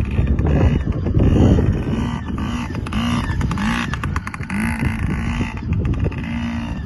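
Yamaha PW50's small two-stroke engine revving up and down again and again as the bike is ridden in circles. There is a heavy low rumble over the first second or two.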